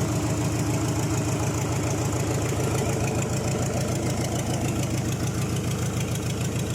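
Freshly overhauled Mitsubishi 4D32 four-cylinder diesel engine idling steadily on its break-in run, with a fast, even diesel clatter.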